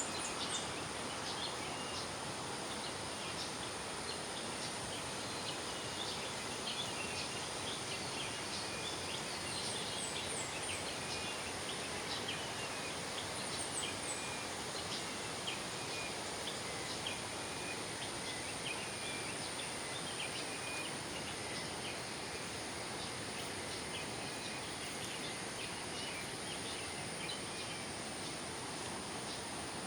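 River water rushing steadily, with many short bird chirps scattered over it and a steady high-pitched insect buzz.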